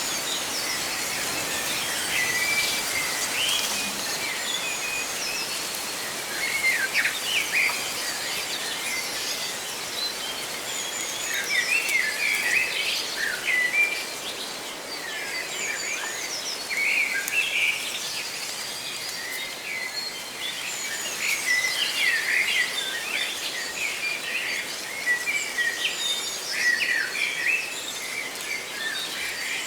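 Several birds chirping and trilling in quick, overlapping calls, over a steady hiss of leaves rustling in the wind.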